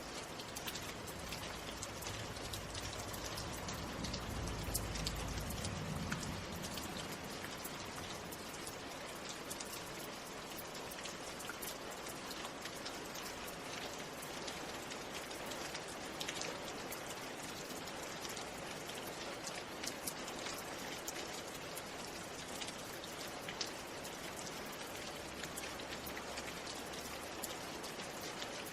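Steady rain falling, an even hiss studded with many small sharp drop ticks. A low rumble swells briefly a few seconds in.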